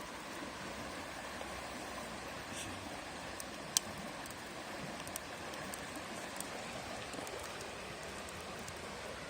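Steady rushing of a river, with a few sharp clicks and one louder snap about four seconds in.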